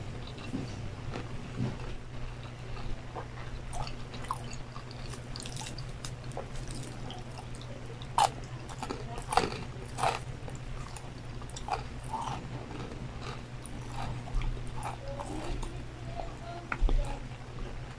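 Close-miked eating sounds: chewing, biting and sharp crunches from a person eating crispy fried chicken and rice, in irregular clusters, with a few louder crunches. A steady low hum runs underneath.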